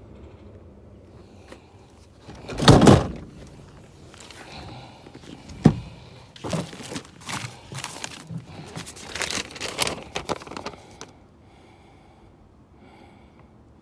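A loud thump, then a sharp knock a few seconds later, followed by a run of smaller clunks and rustling that stops about three seconds before the end.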